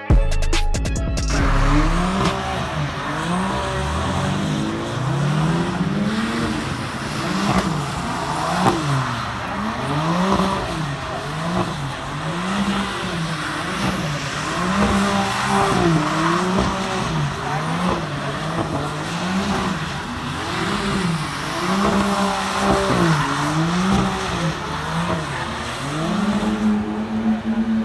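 BMW E46 drift car's engine revving up and down every second or so while drifting, with tyre squeal over it; near the end the engine settles into a steadier, slowly rising note.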